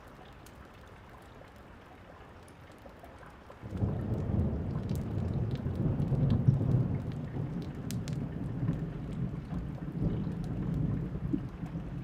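Steady rain falling, then about four seconds in a roll of thunder breaks in suddenly and rumbles on deep and loud, peaking a few seconds later and slowly easing, with scattered sharp ticks over the rain.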